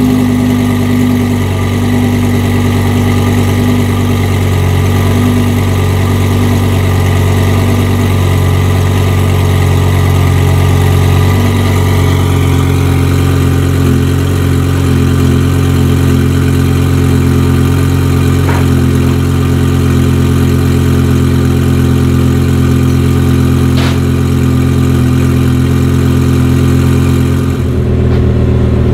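Twin-turbocharged Lamborghini Huracán's V10 idling steadily through its titanium exhaust.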